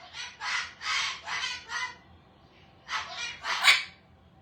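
Pet parrots vocalizing in a series of short, raspy chattering squawks: several in quick succession, a short pause, then two more.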